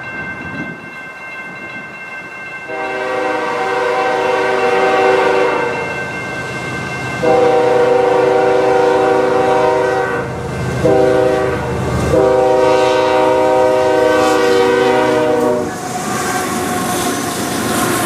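Canadian Pacific freight locomotive's air horn sounding the grade-crossing signal, long, long, short, long, as the train approaches at speed. The last blast ends as the locomotive passes, and the rumble and clatter of the freight cars follows.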